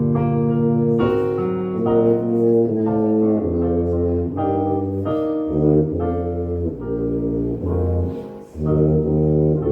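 Tuba playing a tune of held low notes, with piano alongside.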